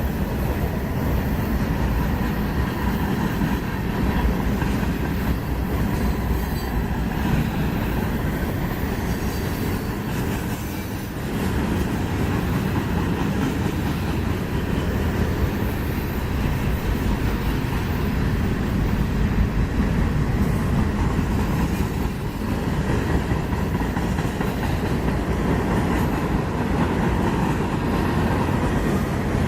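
Freight cars of a long manifest train rolling past, a steady heavy rumble of steel wheels on rail, dipping briefly about eleven seconds in.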